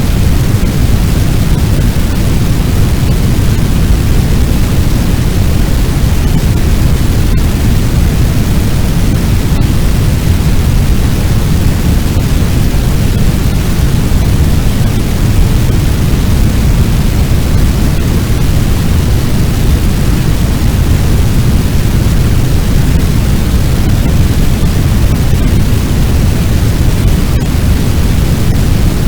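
Fire sound effect of a large blaze: a loud, steady rushing noise, heaviest in the low end, with no single crackle or pop standing out.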